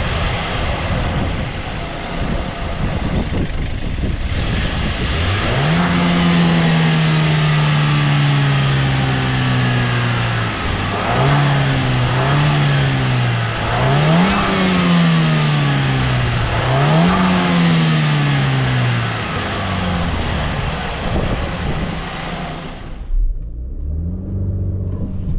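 Range Rover Velar P250's 2.0-litre turbocharged four-cylinder petrol engine pulling hard under full acceleration over loud road and wind noise. Its note climbs sharply and then sinks several times. Near the end the rushing noise cuts away suddenly, leaving a lower, steadier engine note.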